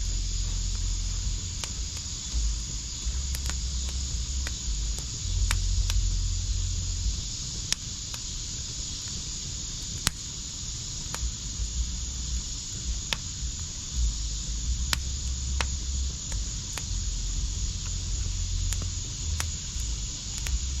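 Wood fire in a backyard fire pit crackling: sharp pops about once a second over a steady hiss, the loudest pop about ten seconds in.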